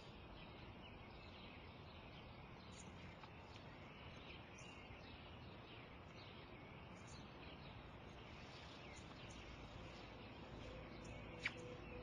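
Faint outdoor ambience with small birds chirping on and off, and one sharper chirp near the end.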